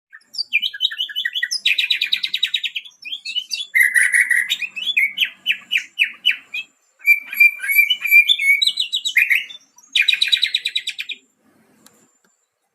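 White-rumped shama (murai batu) singing a varied song of rapid trills, buzzy rattles and whistled phrases, a song the owner says is filled with mimicry of other birds such as sikatan londo, cililin, kenari and lovebird. The song stops about a second before the end.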